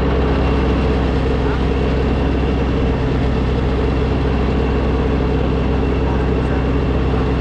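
An engine running steadily at constant speed, with a low, even drone.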